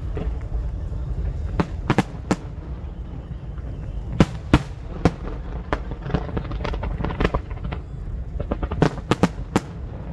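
Fireworks bursting: irregular sharp cracks and bangs in clusters, some in quick succession, over a continuous low rumble.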